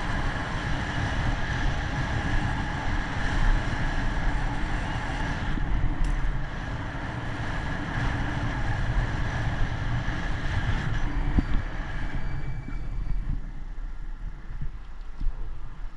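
Wind rumble and road noise while riding a bicycle, a steady noisy rush that thins out after about twelve seconds.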